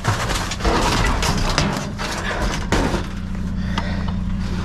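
Irregular clattering and knocking as a discarded desktop computer is handled and opened up among the junk, followed from about three seconds in by a steady low hum.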